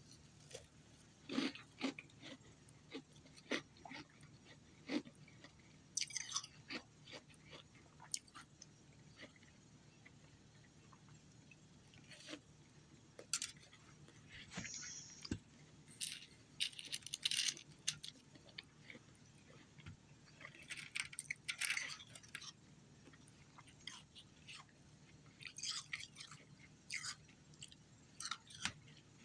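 A person biting and chewing ice, crisp crunches coming in irregular bursts with short pauses between.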